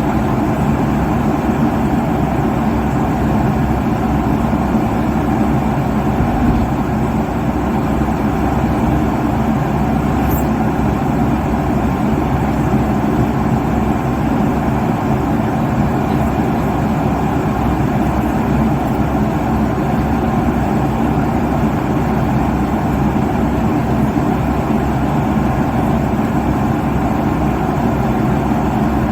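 Steady roar of a jet airliner's cabin at cruise altitude: engine and airflow noise, even and unchanging, with a low hum underneath.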